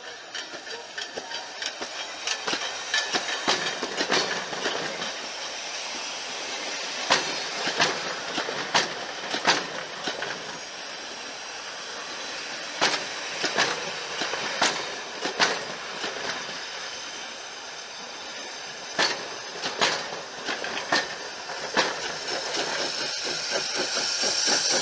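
Heritage passenger carriages rolling past on jointed track, wheels clicking sharply over the rail joints in irregular clusters over a steady rumble. Near the end a hiss rises as the small steam tank locomotive propelling the train draws level.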